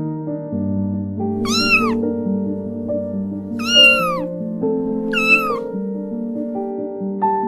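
A kitten meows three times, high-pitched calls about two seconds apart, each falling in pitch at the end, over soft electric-piano background music.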